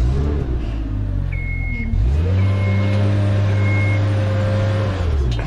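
Aerial work lift being lowered: its drive motor whirs up to a steady pitch about two seconds in and winds down near the end, while the lift's motion alarm beeps three times.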